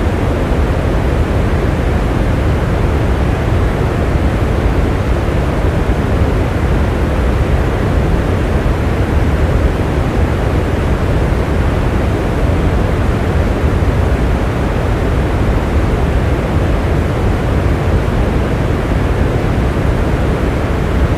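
Steady rain: a dense, unbroken hiss with a deep low rumble, without separate drops or thunder.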